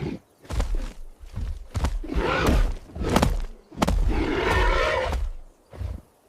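Dramatic film sound effects: a string of heavy thuds with deep booming underneath, and a longer rough, noisy sound from about four to five seconds in.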